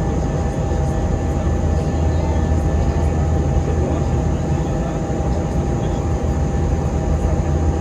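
Steady drone of an Airbus A321-200's jet engines and airflow heard inside the passenger cabin in flight, a deep even rumble with a few steady tones on top.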